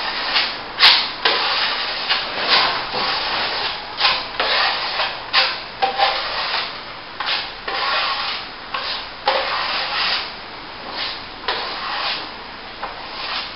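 Steel plastering trowel scraping across wet plaster on a plasterboard repair in repeated, irregular strokes about once a second.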